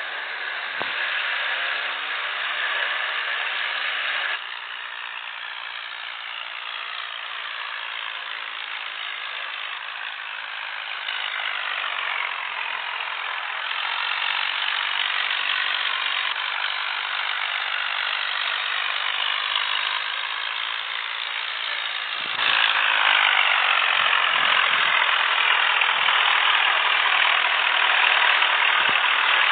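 Tractor engines running hard during a tug-of-war, a dense steady engine noise whose loudness jumps several times, loudest in the last few seconds.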